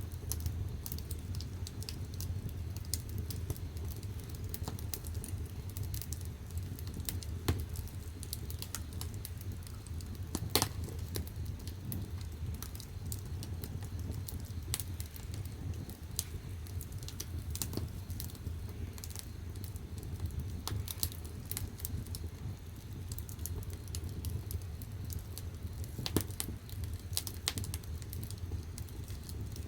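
Firewood burning in the firebox of a wood-fired bath: irregular crackles and pops over a steady low rumble, with the sharpest pops about ten seconds in and again near twenty-six seconds.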